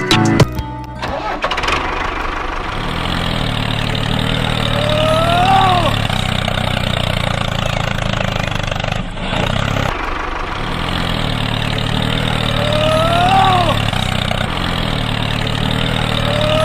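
Tractor engine starting about a second in, then running steadily at idle. A short rising-then-falling squeal comes three times over it.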